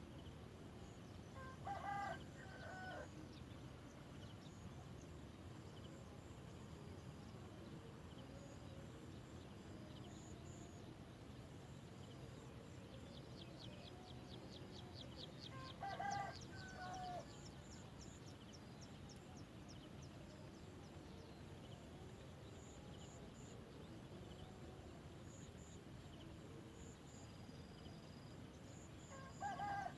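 A rooster crowing three times, each crow about a second long and roughly fourteen seconds apart, over a low background hiss. Between the first two crows a faint, rapid high trill of chirps runs for a few seconds.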